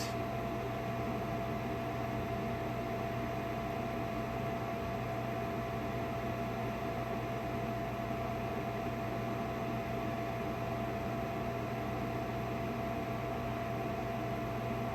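Steady machine hum with a faint constant high tone over a hiss, unchanging throughout, with no clicks or other events.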